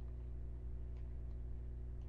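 A steady low hum with a few faint clicks about a second in.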